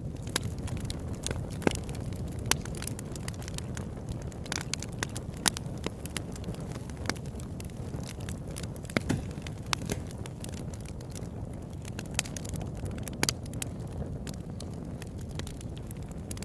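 Campfire burning, a steady low rumble of flames with irregular sharp crackles and pops from the wood.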